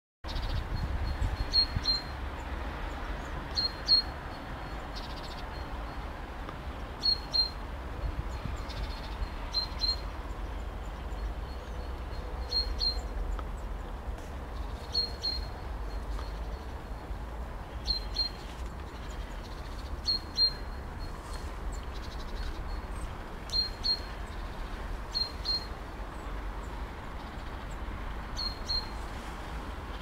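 A small bird repeating short, high chirps, often two at a time, every two to three seconds, over the steady rush of the flowing river and a low rumble.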